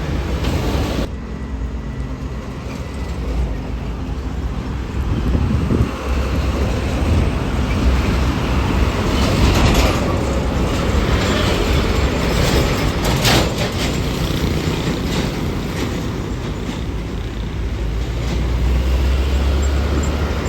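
Road traffic passing, with a low engine rumble that swells twice as heavier vehicles go by.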